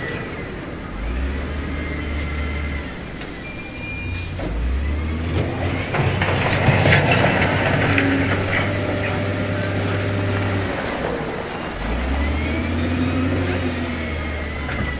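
Heavy diesel construction machinery working. The engine's deep note steps up and down several times as it takes load, with rough clattering and scraping of stone loudest about six to eight seconds in.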